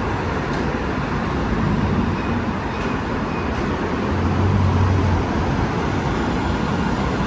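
Steady rumble of a running motor under a rushing noise, the low rumble swelling for about a second past the middle.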